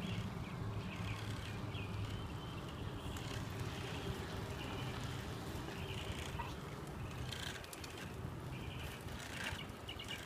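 Bicycle rolling along a road: a steady low rumble of tyres and air, with short high chirps now and then.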